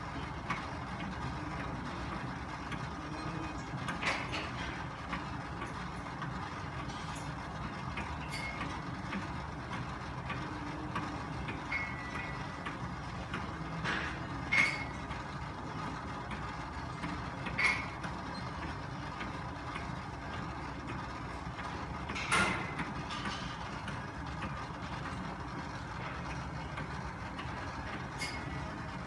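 A gym cardio machine running steadily under use, with a few short sharp clicks and squeaks from its moving parts.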